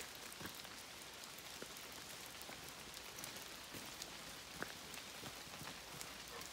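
Steady light rain falling, an even hiss with scattered individual drops ticking close by.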